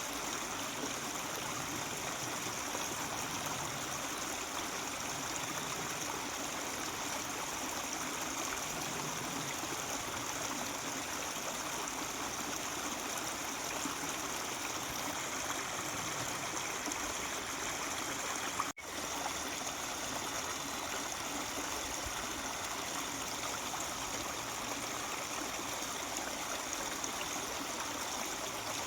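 Mountain stream babbling steadily, with a brief sharp dropout in the sound about two-thirds of the way through.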